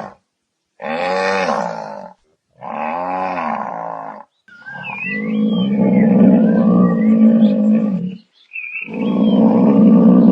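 Cattle mooing: four low calls, two shorter ones followed by two long drawn-out bellows, the last running on past the end. Small bird chirps are heard during the third call.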